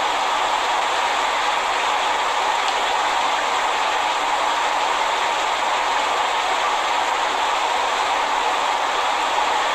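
Steady white noise: an even, unbroken hiss, strongest in the middle and upper range with little bass, played to mask low-frequency noise from the floor above.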